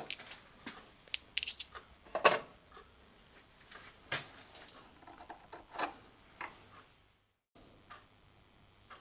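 Irregular metallic clicks and clinks of small steel parts and tools being handled and set down on a workshop bench, with the sharpest knock about two seconds in. The sound cuts out briefly near the end.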